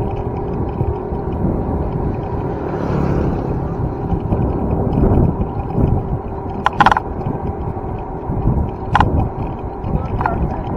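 Steady low rumble of wind and road noise picked up while riding a bicycle, with two short sharp clicks: one about seven seconds in and another about two seconds later.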